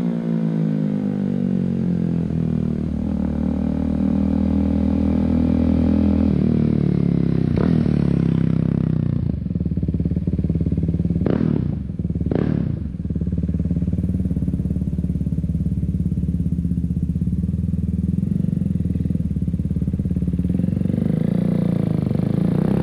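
KTM Duke 390's single-cylinder engine through an aftermarket MIVV exhaust. The engine note falls and steps down in the first few seconds, then two quick throttle blips come close together about eleven and twelve seconds in. It then runs at a steady note and begins to rise again near the end.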